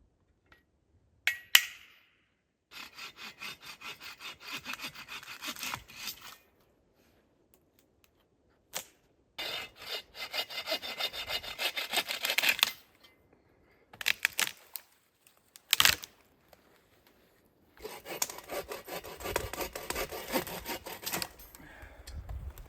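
A bow saw cutting wood in three bouts of quick, rhythmic strokes, with a few sharp knocks of wood in the pauses between them.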